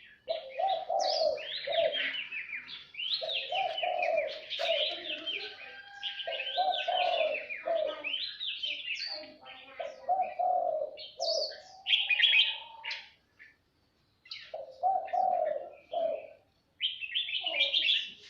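Songbirds chirping and twittering in quick, busy phrases, with repeated lower held notes under them. The song breaks off briefly twice in the second half.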